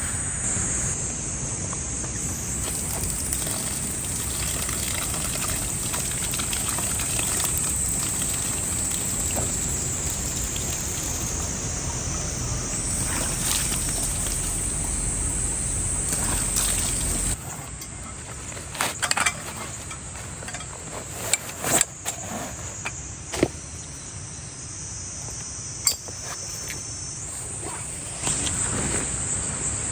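Insects chirring steadily at a high pitch. About seventeen seconds in, the low background noise drops away suddenly, and several sharp clicks and knocks follow.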